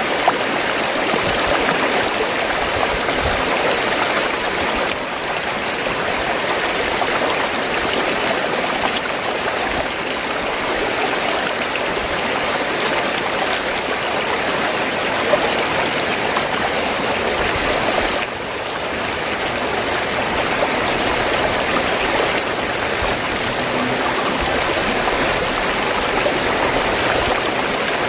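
Fast-flowing stream of water rushing and gurgling in a steady, dense wash of sound, dipping briefly twice.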